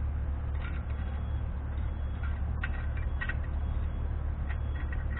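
A steady low hum with scattered faint clicks and taps from small metal parts being handled at the front wheel hub.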